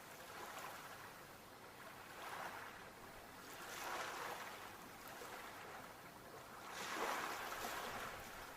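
Ocean waves washing onto the shore, the surf swelling and falling away four times, the loudest wash about seven seconds in.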